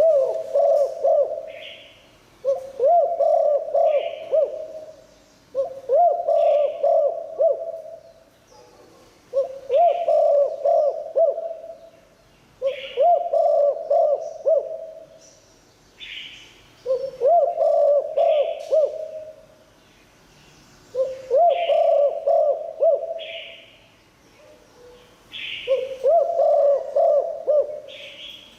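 Spotted dove cooing: a multi-note coo phrase repeated about eight times, each lasting under two seconds with pauses between, and short higher chirps in the gaps.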